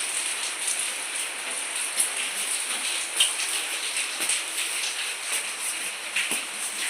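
Heavy rain falling steadily, a dense hiss of drops striking hard surfaces, with a couple of sharper knocks about two and three seconds in.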